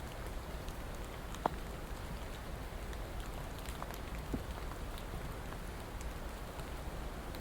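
Steady rain falling, an even hiss with scattered individual drops ticking through it; one louder drop lands about one and a half seconds in.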